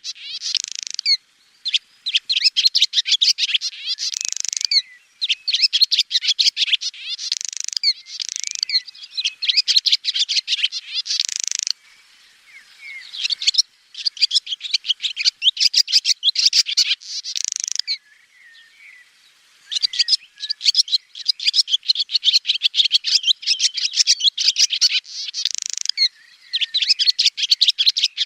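Swallow twittering: rapid runs of high chirps and trills in phrases of a few seconds, with short pauses between them.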